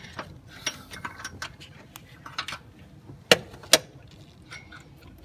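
Metal hand tool clinking and ticking as it is fitted onto an AC compressor mounting bolt, with two sharp metal knocks about half a second apart a little after three seconds in.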